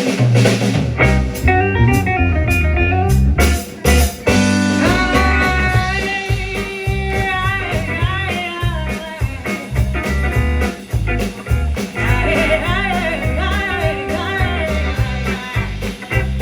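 A live band playing a blues-styled song with electric guitar, bass and drums; the song kicks in at once at the start.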